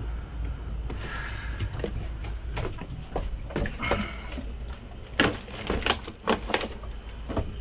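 Several sharp knocks and clatters over a low, steady rumble, the loudest coming about five to seven seconds in.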